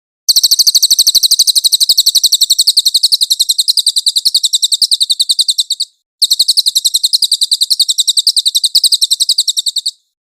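Cililin songbird singing two long, very high-pitched trills of rapid, evenly repeated notes, about ten a second, with a brief break between them about six seconds in.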